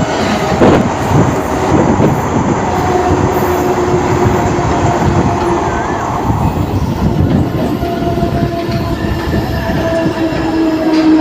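Train running on the track: a loud, steady rumble and irregular clatter of wheels on rails, with drawn-out squealing tones from the wheels through most of it.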